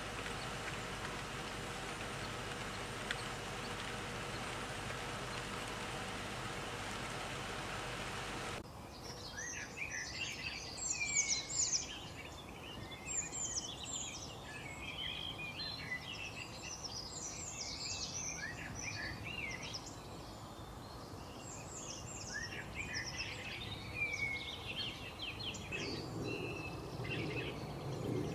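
A steady rushing noise from an outdoor recording, cut off abruptly about nine seconds in. It is followed by a dense chorus of many small songbirds, chirping and trilling with constant overlapping calls.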